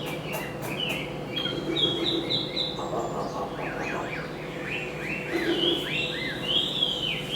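Chinese hwamei singing: clear whistled phrases of short repeated notes, then a run of slurred notes that sweep up and down.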